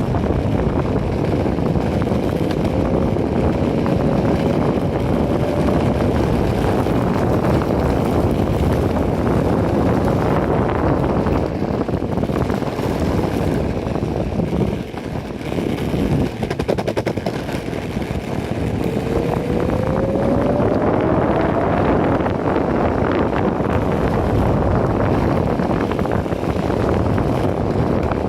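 Enertion Raptor 2 electric skateboard cruising: a loud, steady rumble and rattle of the wheels on pavement, with wind on the microphone. The direct-drive hub motors give a faint whine that rises in pitch twice as the board speeds up.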